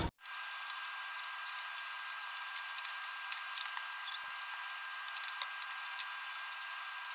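Breaded potato nuggets frying in hot oil: a steady sizzling hiss full of small crackles, with a sharper click about four seconds in. It sounds thin, with no low end.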